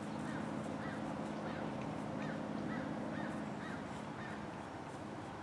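A bird calling over and over, about two short calls a second, stopping a little after four seconds in, over a steady low hum.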